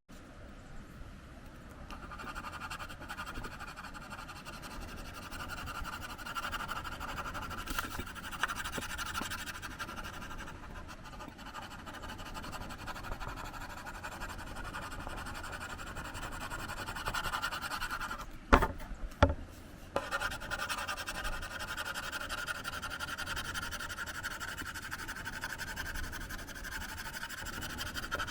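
Museum Aquarelle watercolor pencil scratching back and forth on alkyd-primed synthetic Yupo paper in steady strokes. Two sharp knocks come about two-thirds of the way through and are the loudest moment.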